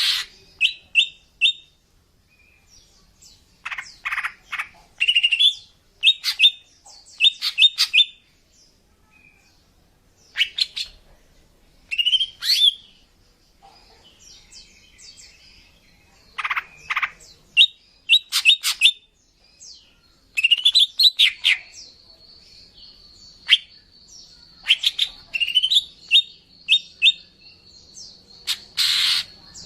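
Female cucak ijo (greater green leafbird) calling in bursts of short sharp chirps and quick rising notes, with short pauses between the bursts. A thin steady high tone sits behind the calls in the second half.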